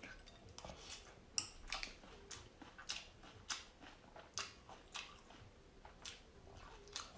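A person chewing a mouthful of chopped fresh red chillies, with a string of sharp, crisp crunches at an uneven pace of about two or three a second.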